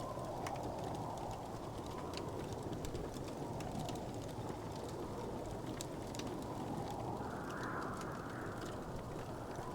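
Wood fire burning in a fireplace: a steady low hiss of flames with many small, scattered crackles and pops of burning wood.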